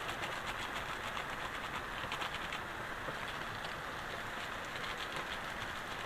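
Heavy rain falling steadily, a constant hiss dotted with many small drop patters.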